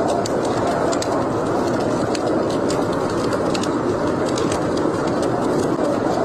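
Wood fire crackling in a fireplace, with irregular sharp pops and snaps, over a steady rushing blizzard wind.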